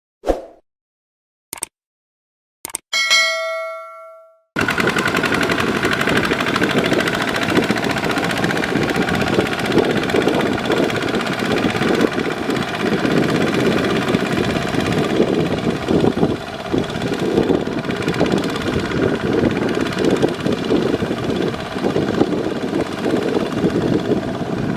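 A few sharp clicks and a ringing ding that fades out, then, about four and a half seconds in, the single-cylinder Kubota ZT140 diesel engine of a walking tractor starts running steadily and loudly with a rapid knocking beat.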